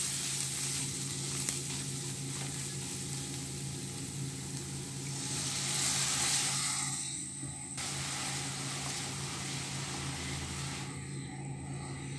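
Onion and ground-spice masala sizzling in hot oil in a nonstick karahi while it is stirred with a spatula, the stage of frying down (koshano) the spices. The sizzle grows louder about halfway through, once the masala has turned wet.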